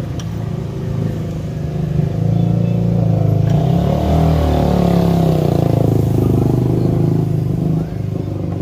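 A motor vehicle engine running steadily nearby. About two seconds in it gets louder, its pitch rising and falling as if revved or passing close by, and it drops back near the end.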